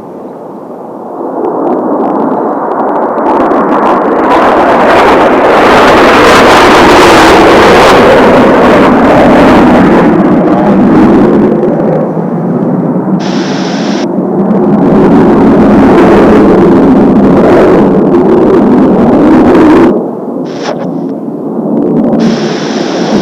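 Kawasaki T-4 jet trainers flying past in formation: loud jet engine noise that swells in about a second in, holds with two broad peaks, then drops off sharply near the end.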